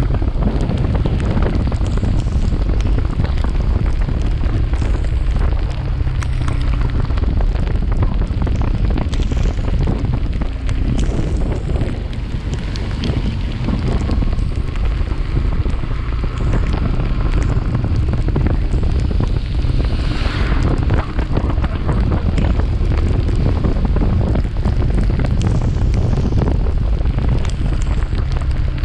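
Steady wind buffeting a chest-mounted action camera's microphone on a moving motorcycle, a loud low rush that covers most other sound.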